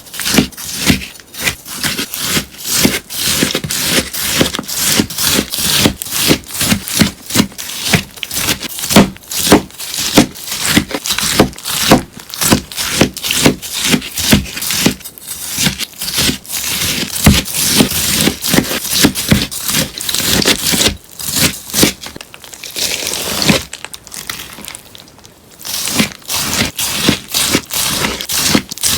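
Scissors snipping through a sponge in a rapid run of crisp, sharp cuts, a few a second, briefly quieter about four-fifths of the way through.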